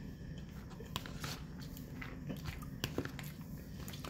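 Close mouth sounds of someone chewing a mouthful of breaded chicken cutlet with rice and beans, with scattered sharp clicks of a fork against a plastic food tub.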